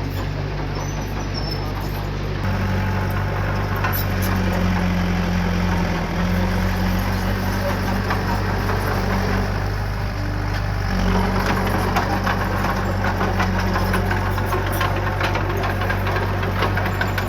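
Diesel engine of heavy earthmoving equipment running steadily, then working harder from about two and a half seconds in, with metallic clattering through the later part.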